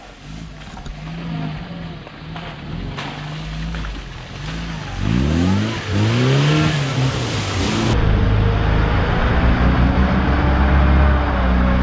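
UAZ off-road vehicle's engine revving repeatedly, pitch rising and falling, getting louder about five seconds in and then held at high revs while it pushes through waist-deep water.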